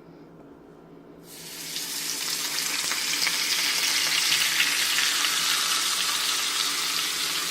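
Seasoned chicken breasts sizzling in hot olive oil in a frying pan. The sizzle starts about a second in, builds quickly and then holds as a steady loud hiss.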